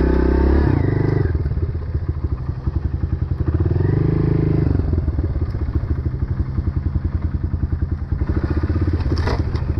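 Dirt bike engine running under load through soft sand, revving up twice, once at the start and again about four seconds in, then pulling on more steadily.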